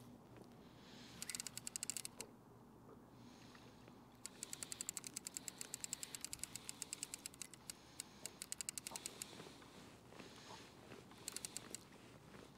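Fishing reel being cranked, its gears clicking rapidly in three bursts: a short one about a second in, a longer run of several seconds in the middle, and a brief one near the end, as line is reeled in.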